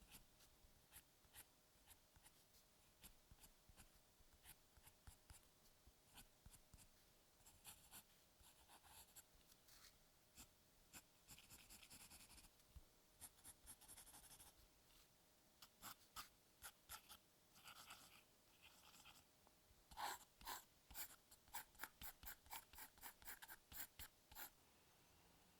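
Quiet strokes of a drawing tool scratching across paper: short single strokes and a few longer scratchy passages, then a quick run of short hatching strokes near the end.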